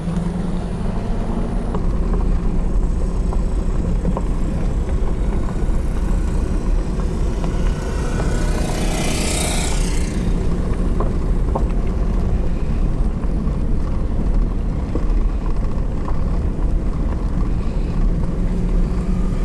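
Large radio-controlled model airplane's engine and propeller running with a steady low drone, with a brief rising-and-falling hiss about nine seconds in.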